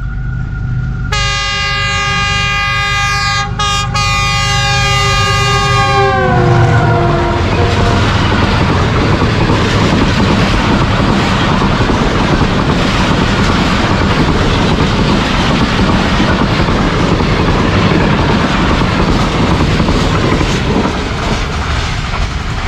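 Diesel locomotive horn sounding for about five seconds as an express train runs through at about 100 km/h, its pitch dropping as the locomotive passes. Then the steady rush and clickety-clack of the passenger coaches going by.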